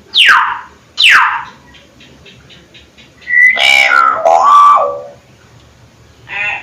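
Hill myna calling: two sharp whistles that drop steeply in pitch in the first second and a half, then a longer call that bends up and down, and a short note near the end.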